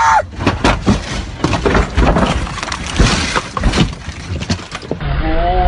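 Car crash: a rapid string of impacts with breaking, shattering glass and debris, over about five seconds.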